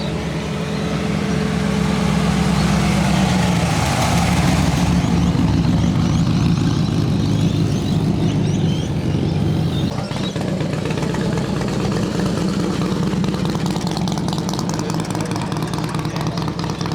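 Loud car engine running steadily, with a deep lumpy exhaust and a brief surge around four seconds in.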